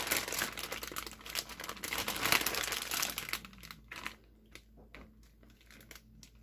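Plastic bag crinkling and rustling as it is handled and squeezed out, giving way after about three and a half seconds to a few scattered light clicks and taps.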